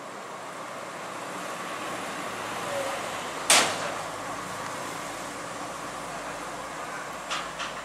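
Heavy equipment running steadily, with one loud sharp crack about three and a half seconds in and two smaller clicks near the end.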